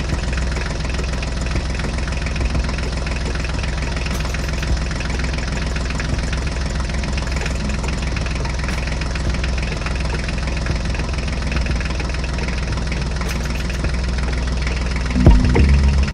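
Engine idling steadily with a low rumble. It gets louder about a second before it cuts off abruptly.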